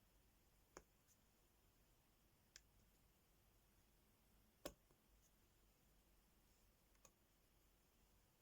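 Sparse, faint clicks and taps of small hard pieces from a diamond art sticker kit being handled, four distinct ones a second or two apart, the loudest about halfway through, over very quiet room tone.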